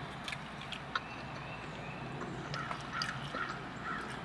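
Quiet eating sounds: small scattered clicks and crunches of chewing and handling fried chicken nuggets, with a few faint short chirps in the middle.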